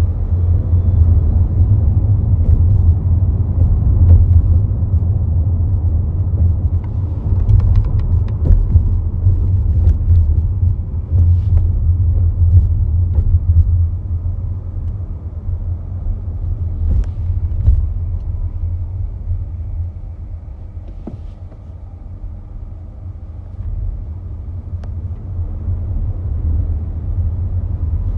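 Low, steady rumble of a 2018 Honda Accord Hybrid being driven, heard inside the cabin from the driver's floor, with a few faint clicks. It eases off for a few seconds about two-thirds of the way through.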